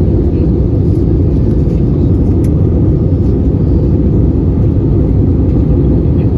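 Steady low rumble of engine and airflow noise heard inside the cabin of an Airbus A320-214 airliner in flight.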